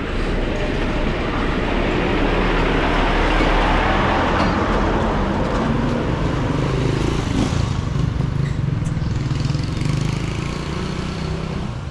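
A motor vehicle's engine running loudly close by, with road noise, loudest a few seconds in and easing off near the end.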